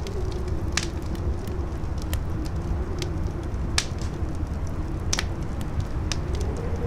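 Campfire crackling with scattered sharp pops, a few of them loud, over a steady low wind rumble and a wavering howl of wind that swells and rises in pitch near the end.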